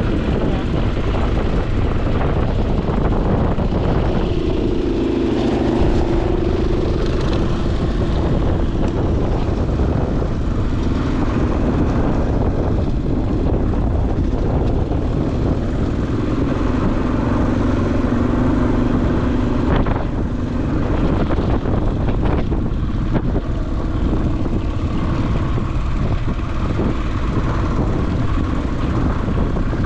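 Dirt bike engine running as heard from the bike itself while riding a rocky trail, its note rising and falling with the throttle over a constant low rumble.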